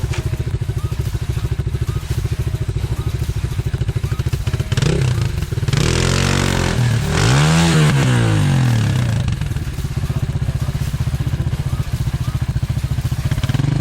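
Enduro pit bike engine idling with a steady putter, then revved hard in two rising-and-falling bursts about five and seven seconds in, with a spraying hiss of the rear wheel spinning in mud as the bike tries to climb out of a dug-in hole. It revs once more near the end.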